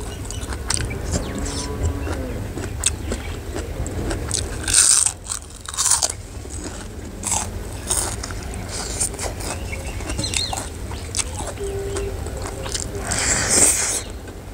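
Close-miked chewing and crunching of a mouthful of food, with loud crisp crunches about five and six seconds in and again near the end. A low steady hum runs underneath.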